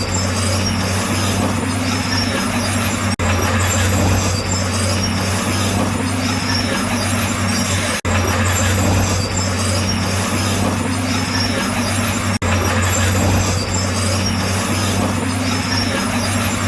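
Crawler bulldozer's diesel engine running steadily under load, with a strong low hum and a broad clattering hiss. The sound cuts out for a split second about three times, where the footage is cut.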